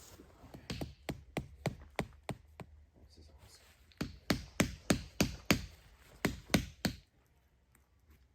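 A quick series of sharp knocking blows, about three a second: a run of about eight, a pause of about a second, then about ten louder ones that stop abruptly near the end.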